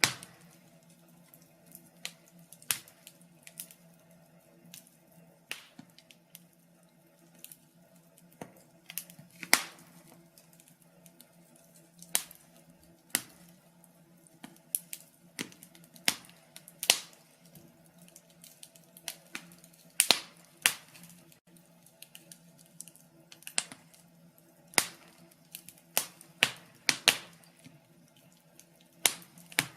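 Wood fire crackling in a fireplace: irregular sharp pops and snaps, a louder one every second or two, over a faint steady low hum.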